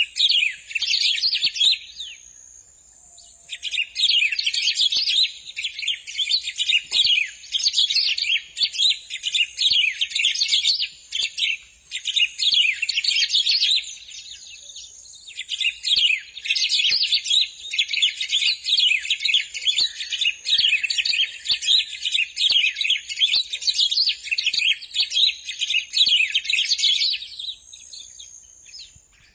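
Bico-de-pimenta (black-throated grosbeak, Saltator fuliginosus) singing in long bouts of rapid, dense chirping notes. The bouts break off briefly about two seconds in, around fourteen seconds in, and near the end.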